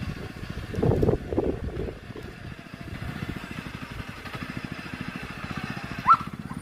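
An engine running with a rapid, even putter and a brief surge about a second in. A short high squeak near the end is the loudest moment.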